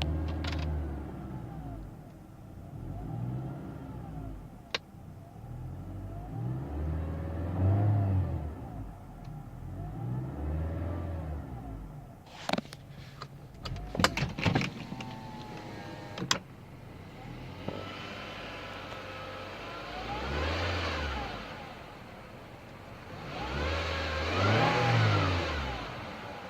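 2013 Nissan Altima coupe engine revved up and let fall back again and again, with a whine that rises and falls with engine speed. There is a cluster of sharp clicks in the middle, and two longer, higher revs near the end.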